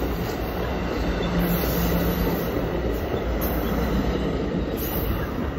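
Double-deck commuter train coaches rolling past a platform as the train pulls out of the station: a steady noise of steel wheels running on the rails.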